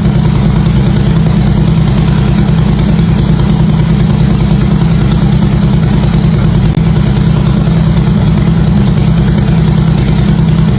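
Harley-Davidson V-twin motorcycle exhaust idling steadily and loudly, with a rapid, even low pulse and no revving.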